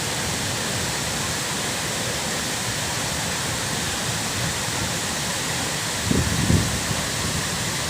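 Waterfall rushing as a steady, full roar of falling water. About six seconds in there are a couple of brief low thuds.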